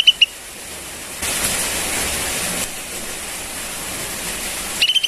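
Sooty-headed bulbul (kutilang) chick giving a quick cluster of short, high begging chirps right at the start and again near the end. A steady hiss fills the gap, louder for a second or so early on.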